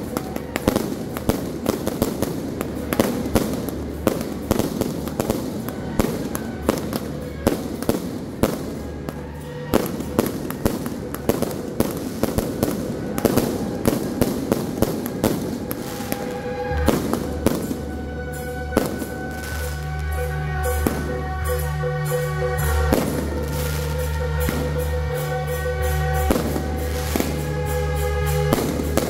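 Aerial fireworks crackling and popping in dense, rapid volleys. About two-thirds of the way through, the crackle thins out and music with steady held notes comes in, with scattered pops still going on under it.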